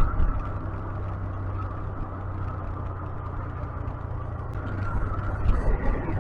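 A 125cc motorcycle engine running steadily under way, a low drone that eases a little midway and picks up again toward the end.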